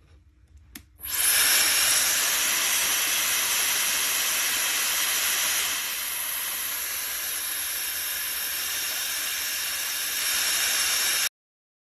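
Shark FlexStyle hair dryer switched on with a click, then blowing a steady rush of air with a high motor whine. It gets somewhat quieter about halfway through, comes back up near the end, then cuts off suddenly.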